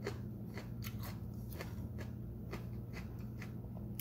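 Close-up eating sounds: chewing with scattered soft wet clicks and smacks from the mouth and licked fingers, over a steady low hum.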